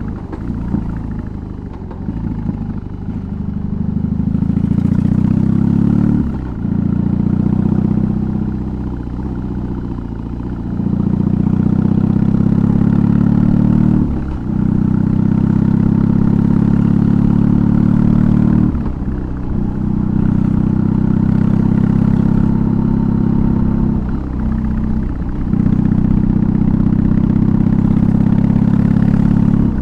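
BMW R18's 1802 cc boxer twin, fitted with a custom exhaust, running under load while riding. The exhaust sound drops briefly about four times as the throttle is rolled off, then picks up again each time.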